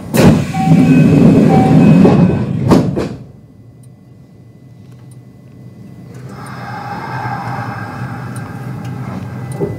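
Sliding doors of a Kintetsu 5200 series train closing, ending in two thuds about three seconds in. After a quieter pause, the Mitsubishi GTO-VVVF inverter starts its whine, growing louder as the train begins to pull away.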